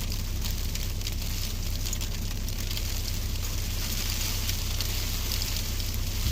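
Strong blizzard wind buffeting the microphone: a steady low rumble under a crackling hiss.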